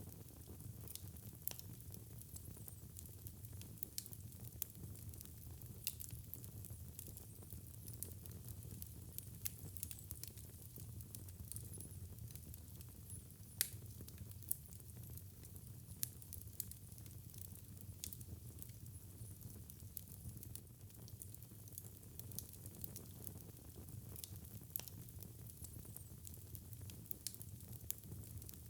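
Fire crackling in a fireplace: frequent small pops and snaps over a low steady rumble, with one sharper pop about halfway through.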